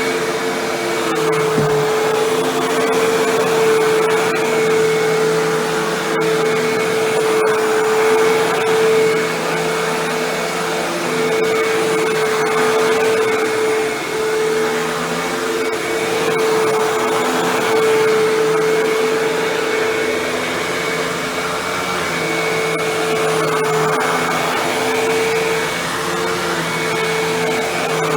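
Hoover bagless twin-chamber upright vacuum cleaner running steadily with a constant motor whine, the sound swelling and dipping slightly as it is pushed back and forth.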